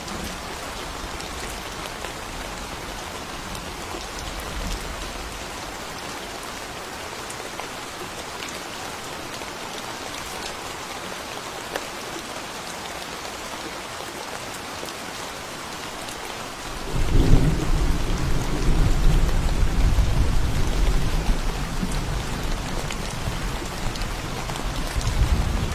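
Steady rain falling on a forest path, with a faint low rumble of thunder dying away in the first few seconds. About two-thirds of the way through, a loud, deep rumble of thunder rolls in suddenly and keeps rumbling under the rain.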